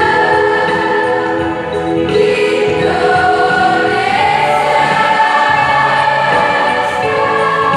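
Choir singing in parts, holding sustained notes that shift together every second or so.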